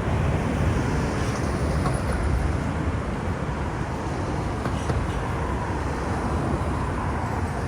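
Steady rumble of street traffic where Hiroshima Electric Railway trams run alongside road vehicles.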